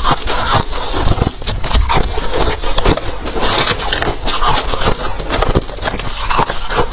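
Hard refrozen crushed ice being crunched between the teeth: a dense, continuous run of sharp cracks and crunches.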